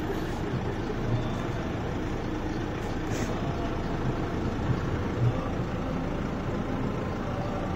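Steady street noise, mostly the low rumble of car engines idling in a slow line of cars.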